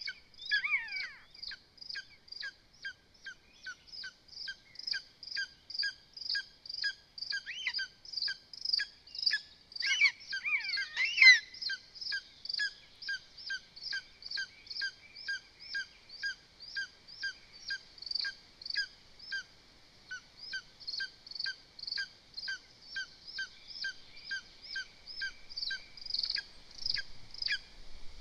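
A bird calling in a steady, evenly spaced series of short high calls, about two and a half a second, with a louder burst of sliding calls about ten seconds in.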